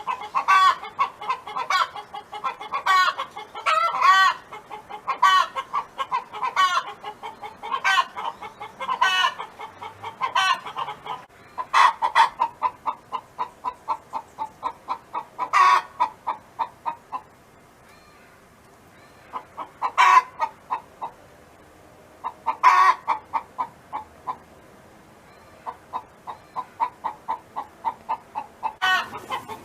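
Domestic hen clucking in rapid runs of about four clucks a second. The runs are broken now and then by louder, drawn-out squawks, in a cackling pattern, with a few short lulls.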